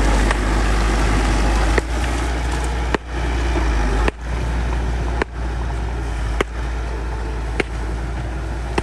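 Bulldozer's diesel engine running steadily with a deep rumble, with a sharp click about once a second.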